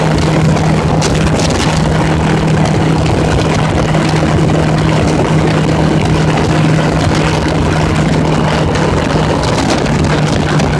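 1980s Honda Gold Wing motorcycle engine running at a steady cruising speed, its note holding one pitch, under loud wind rush over the microphone.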